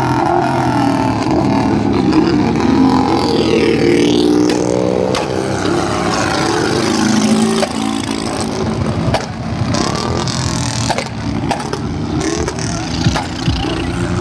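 Tractor engines running loud and revving, the pitch climbing and falling in the first half, then running more steadily with a few sharp clicks.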